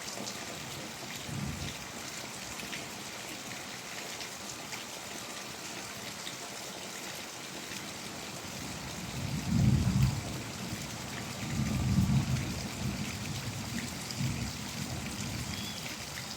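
Steady rain falling, with scattered drops ticking. About halfway through, thunder begins to rumble low in several rolling swells.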